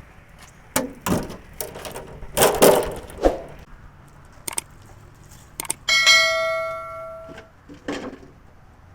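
Metal parts knocked and clanked together in a run of sharp hits, then one hard strike on a metal part that rings out with a bell-like tone and fades over about a second and a half, and one more knock near the end.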